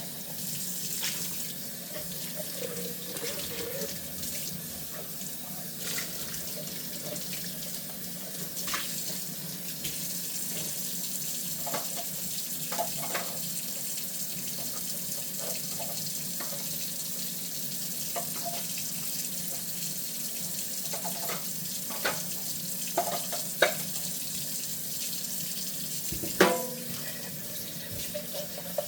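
Kitchen tap running steadily into a sink during hand dishwashing, with scattered clinks and knocks of dishes, the sharpest three in the last third.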